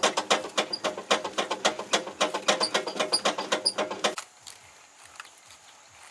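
A fast run of sharp knocks, about five a second, that stops suddenly about four seconds in and leaves a few faint ticks.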